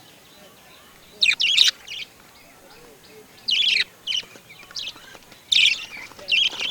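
A bird calling: short, loud, high chirps in quick groups, starting about a second in and repeating irregularly every second or so.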